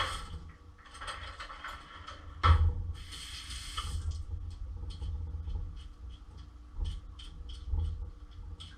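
A vegetable peeler scraping the skin off vegetables in short repeated strokes, about two or three a second. A single knock and a brief rustle come before the strokes begin.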